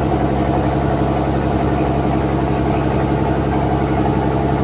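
Fishing boat's inboard diesel engine running steadily at high throttle, loud and droning.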